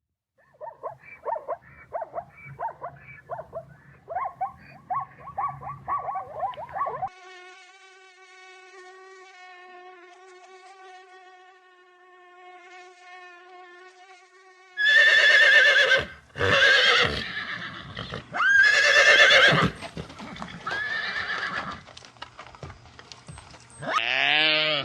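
Animal calls: first a run of quick repeated short calls, then a steady even-pitched hum for several seconds, then from about two-thirds of the way in a series of loud horse whinnies with falling pitch.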